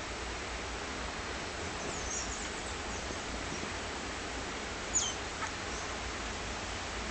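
Steady hiss of rain with a few short, high-pitched bird calls. About five seconds in, one sharp call sweeps quickly downward and stands out as the loudest.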